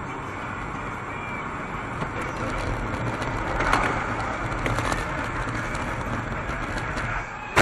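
Car driving, with road and engine noise picked up by a dashboard camera. The noise swells about three and a half seconds in, and there is one sharp click at the very end.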